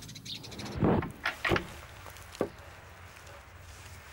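Birds chirping: a few short calls, the first about a second in and the last near two and a half seconds, over a low steady hum.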